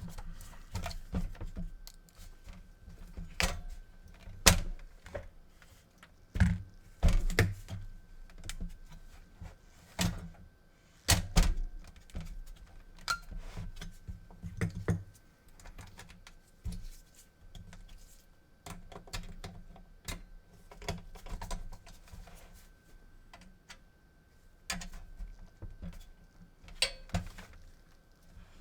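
Irregular clicks, taps and knocks of hard plastic and metal parts being handled, a few with a dull thump, as a PS4 console's board and casing are fitted together for a quick test.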